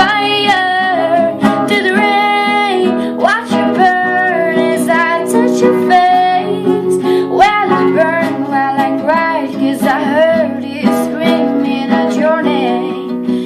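A woman's voice singing long, wavering held notes over a strummed guitar, the accompaniment to a pop ballad.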